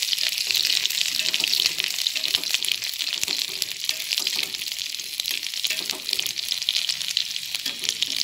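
Chopped onions and green chillies sizzling in hot oil in a kadhai, stirred with a metal spatula: a steady crackling sizzle with many small pops.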